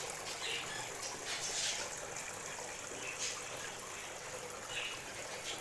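Small birds chirping in short, high calls every second or so over a steady rushing background.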